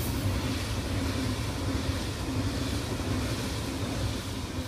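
A train passing on the line: a steady low rumble and rail noise with a faint hum over it.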